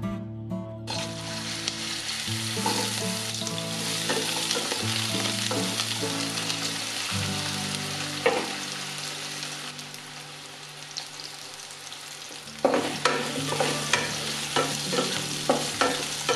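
Vegetable pieces sizzling as they fry in hot mustard oil in a nonstick wok; the sizzle starts suddenly about a second in. From about thirteen seconds a wooden spatula knocks and scrapes against the pan as the pieces are turned.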